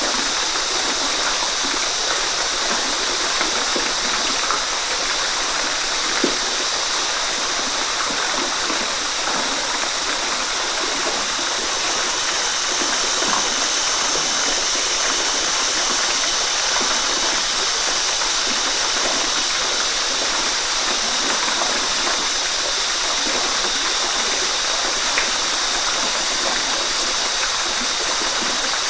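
Waterfall: falling water rushing and splashing in a steady, even wash of noise, with a few small splashes standing out.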